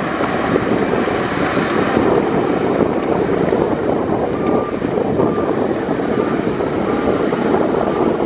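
Heavy diesel earthmoving machinery running steadily, with faint short beeps repeating a little under once a second midway through.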